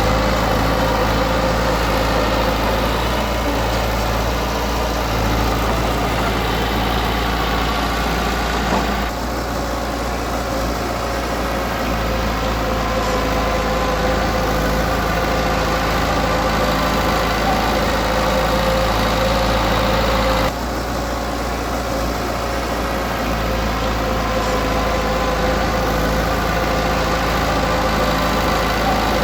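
Heavy earthmoving machinery's diesel engine running steadily, with a steady mid-pitched whine over the engine note. The sound drops abruptly in level about nine seconds in and again about twenty seconds in.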